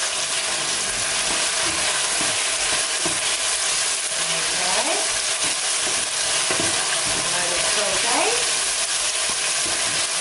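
Frozen okra, onion and garlic sizzling steadily in hot olive oil in a steel pot while being stirred with a wooden spoon.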